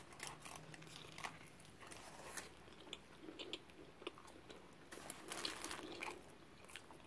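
Faint biting and chewing of a large flour-tortilla burrito: soft, wet mouth clicks and smacks, with a short cluster of them about five seconds in.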